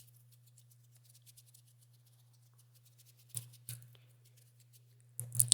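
Mechanical keyboard keys clicking: soft, rapid typing at first, then a few louder single key presses about three and a half seconds in and again near the end.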